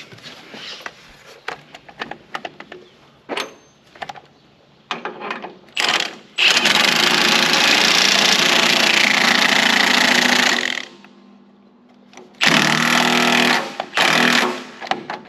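Impact wrench hammering in two runs, one of about four seconds and then, after a short pause, one of about two seconds, tightening the bolts on a loader mounting bracket. Before it there are a few seconds of light tool and metal clatter.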